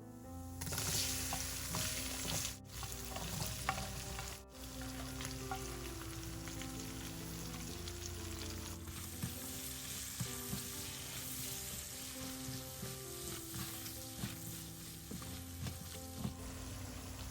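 Food sizzling in hot oil in a pan, starting about half a second in, with scattered clicks of stirring.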